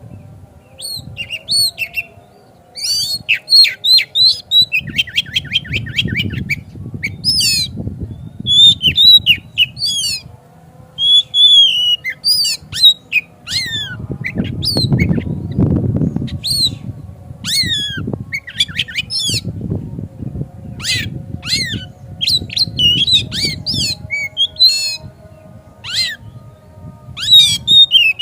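Oriental magpie-robin (kacer) singing a fast, varied song of sweeping whistles and harsh chattering notes, with a rapid trill about five seconds in. A low rumbling noise runs underneath, loudest about halfway through.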